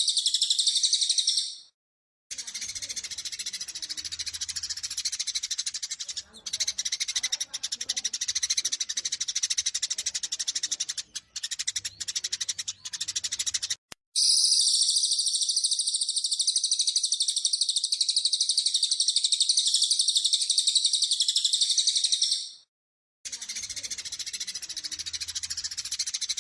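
Sparrows' rapid, dense chattering fight calls, high-pitched and continuous, played as a looped recording. The sections are spliced together with two short silent breaks, about two seconds in and near the end.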